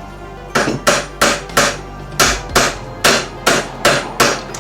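Hammer striking a new U-joint's bearing cap to drive it into the driveshaft yoke. About ten sharp blows, roughly three a second, with a short pause near the middle.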